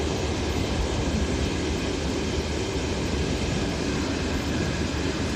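Train wheels running on the rails, a steady low rumble of a moving train.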